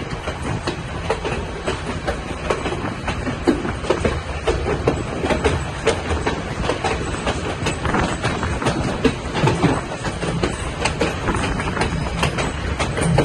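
A narrow-gauge passenger train running on the White Pass & Yukon Route line: a steady rumble of the cars rolling, with many irregular clicks and clacks from the wheels going over the track.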